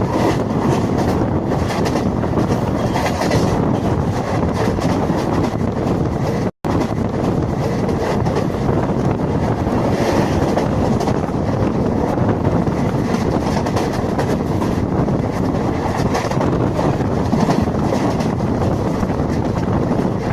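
Passenger train running along the track: a steady, loud rumble of wheels on rails with wind noise. The sound cuts out for an instant about six and a half seconds in.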